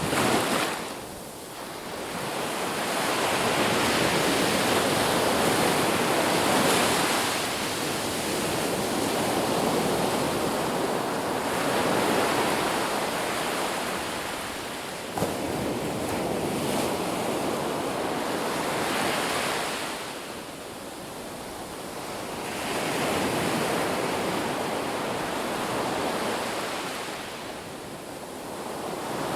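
Ocean surf breaking on a beach, a rushing wash that swells and falls back as each wave comes in and recedes. A single short sharp click sounds about halfway through.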